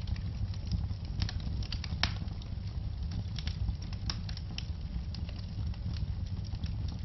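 Wood fire in a fireplace crackling: irregular sharp pops and snaps, a few louder ones, over a steady low rumble of the flames.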